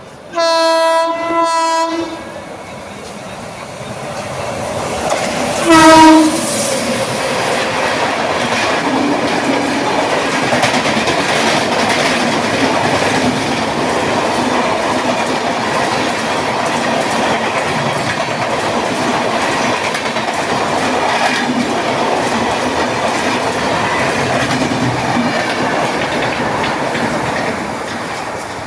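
Indian Railways superfast express train passing at speed. The locomotive's horn sounds a long blast, dipping briefly partway through, then a shorter, louder blast about six seconds in. After that the coaches' wheels clatter steadily over the rail joints, easing off near the end.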